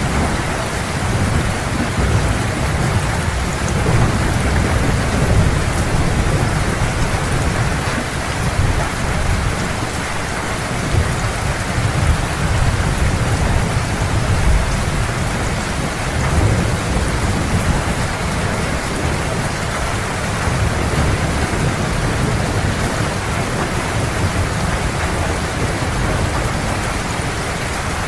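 Heavy rain falling steadily, with a continuous low rumble of distant thunder underneath.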